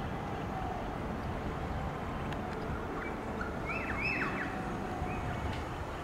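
A bird gives a few short calls about midway, each note dropping quickly in pitch, over a steady low rumble of outdoor background noise.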